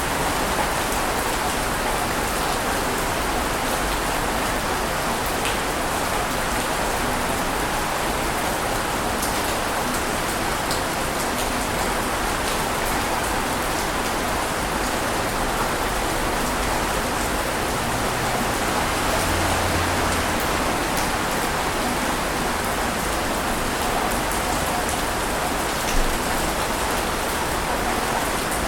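Ocean surf as a steady, even rush of water noise with no separate wave crashes standing out, and a single brief click near the end.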